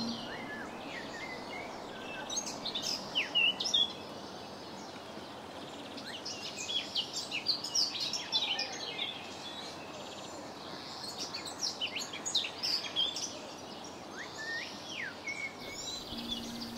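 Birds chirping in several bursts of quick, high calls over a steady background hiss.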